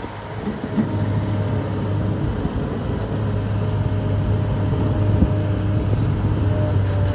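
Excavator's diesel engine running steadily with a deep drone and a faint higher whine, with a few light knocks over it.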